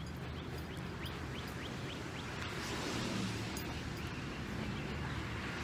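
Outdoor background noise with a steady low rumble. Early on a bird gives a quick run of about six short rising chirps.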